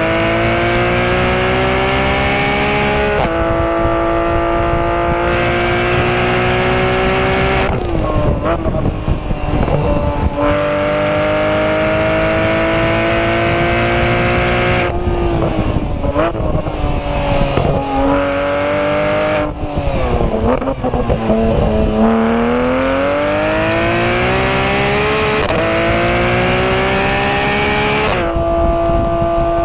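Porsche 991 GT3 RS's naturally aspirated 4.0-litre flat-six at full throttle on track. It climbs in pitch through the gears with quick upshifts, each a sudden drop in pitch. Two choppier stretches of rapid downshifts, with short rises in pitch, come under braking, each followed by another long pull.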